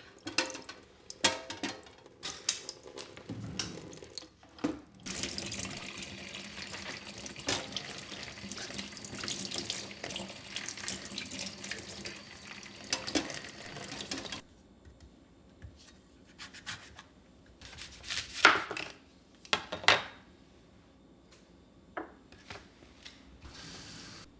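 Kitchen tap running water into the sink for about ten seconds, then shut off suddenly. Scattered knocks and clatter come before it and a few sharp knocks after.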